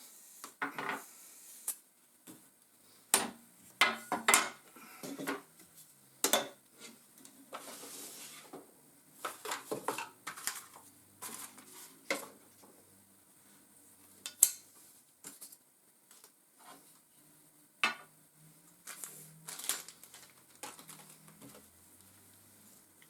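Irregular clacks, knocks and rattles of the feeder's mounting pieces and their packaging being handled, with a short rustle about eight seconds in.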